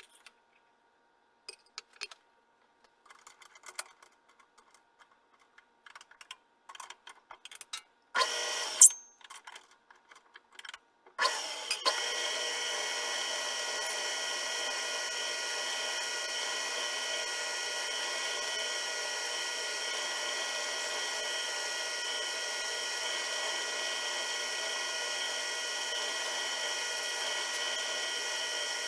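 Light clicks and taps of metal parts and tools being handled, then an electric motor of a power tool or machine tool runs briefly, stops, and starts again about three seconds later, running on with a steady whine.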